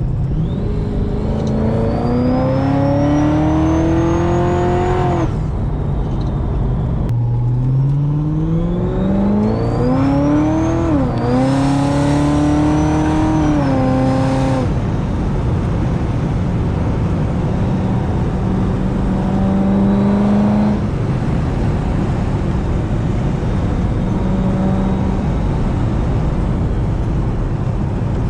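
Supercharged Corvette V8 with a cog-driven blower and a headers, X-pipe and Corsa exhaust, pulling hard twice: the engine note climbs with a high supercharger whine rising above it. The first pull breaks off about five seconds in; the second runs through a gear change before easing off. The car then cruises at a steadier, lower note.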